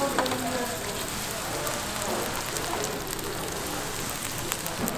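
Pancake batter sizzling and crackling in hot oil in a nonstick frying pan as it is spread out with a silicone spatula.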